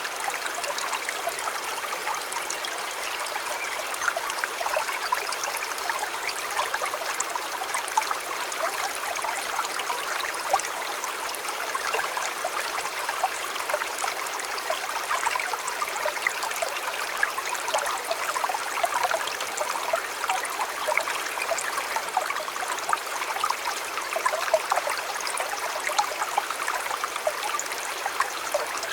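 River water running over stones, a steady splashing and gurgling babble.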